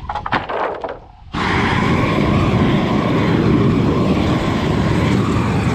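Torch flame burning with a steady roar as wood boards are burnished, starting abruptly about a second in after a few faint knocks.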